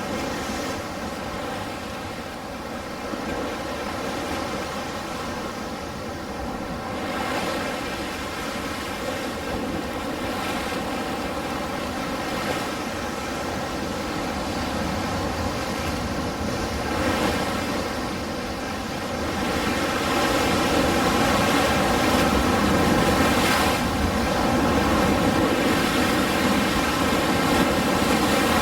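Ocean surf, a continuous wash of breaking waves that swells louder about a quarter of the way in and again for the last third.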